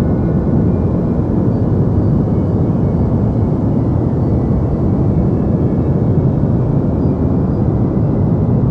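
Steady deep white noise for sleep: an unbroken, even rumbling hush, heaviest in the low end with only faint hiss above.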